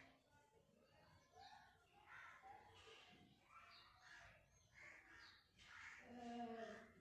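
Faint bird calls, repeated every second or so.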